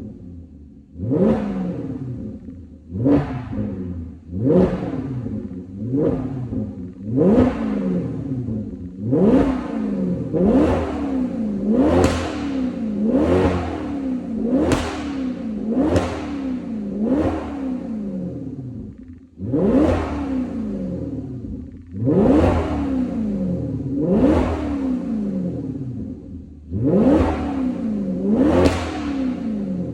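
Maserati Quattroporte V8 exhaust as the engine is revved over and over, each rev rising quickly in pitch and falling back to idle, roughly every one and a half seconds with a couple of short breaks.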